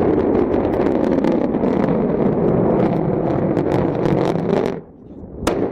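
Loud rocket roar, a heavy crackling rumble, cutting off abruptly about five seconds in, followed by a short sharp blip.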